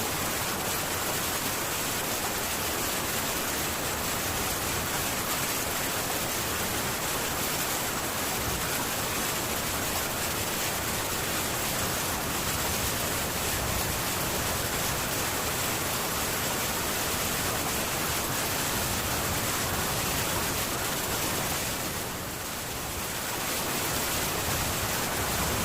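Heavy rain falling steadily on a metal tin roof, as an even hiss that eases briefly near the end.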